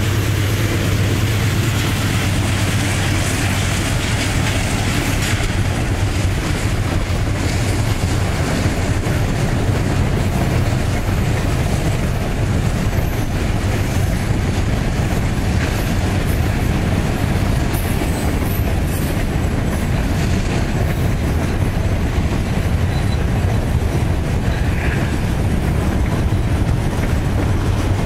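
Diesel-electric freight train passing: the steady low drone of several locomotives running together, over the rumble of wheels on the rails.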